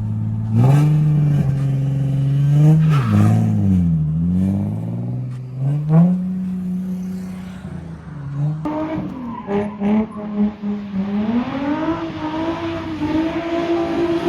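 Nissan 350Z's V6 engine, freshly fitted, revving up and dropping back repeatedly while being driven hard. From about the middle on, the engine stays high and a tyre squeal joins it as the car slides.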